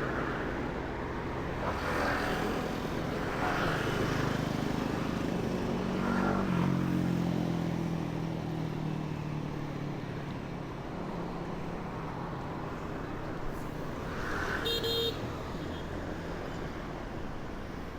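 City street traffic heard from a moving bicycle. There is a steady hum and hiss of passing engines, one vehicle's engine swells by a few seconds in, and a short horn beep sounds near the end.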